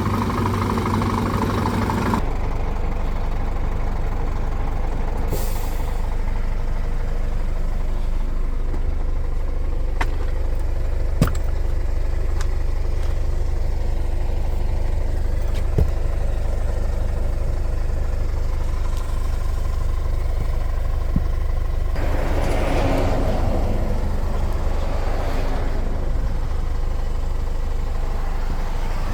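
Heavy diesel truck engine running steadily, heard from the cab; its note drops to a lower, steadier hum about two seconds in. A brief high hiss comes about five seconds in, there are a few sharp clicks, and near the end a rushing noise swells and fades over several seconds.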